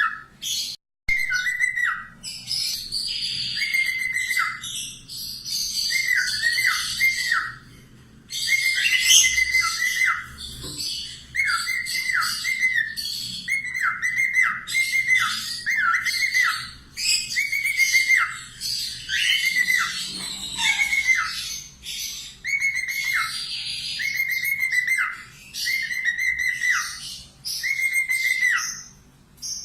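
A small parrot calling over and over. Each call is a short level whistle that drops sharply at the end, coming about one or two a second in runs, with scratchy chattering above it.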